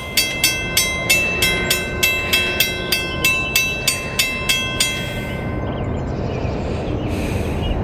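Old railroad grade-crossing bell ringing steadily at about three strikes a second, stopping about five seconds in, over the low rumble of an approaching freight train.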